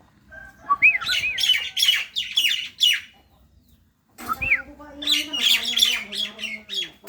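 A jalak (starling) calling in two bouts of rapid harsh chattering and squawks mixed with short whistled notes, each bout about three seconds long with a pause between.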